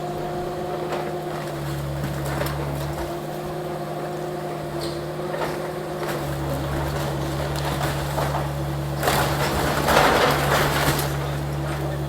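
Small excavator's diesel engine running steadily during demolition, with scattered knocks and clatter. A louder crash of demolition debris about nine seconds in lasts about two seconds.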